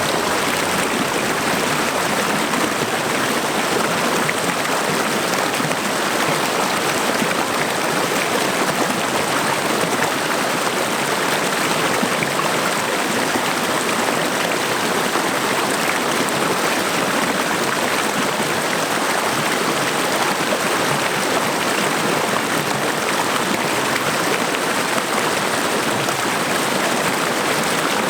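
Waterfall water rushing steadily, an even hiss with no breaks or changes.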